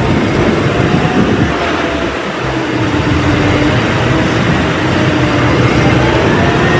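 Loud, steady rumble and hiss like a heavy vehicle's engine running, with faint wavering tones above it and no change in pace.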